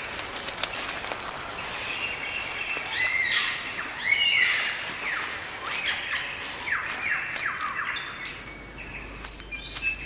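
Birds singing: a dense mix of whistled notes and chirps, loudest about four seconds in, then a run of quick downward-sweeping calls, about three a second, from around six to eight seconds in.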